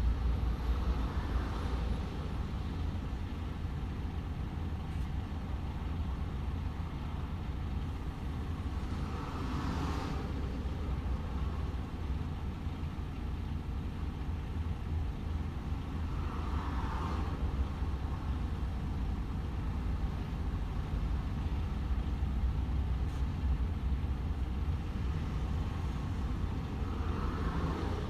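DAF XF 510 truck cruising on the motorway: a steady low engine drone under road and tyre noise. A brief swell of higher-pitched noise comes and goes four times.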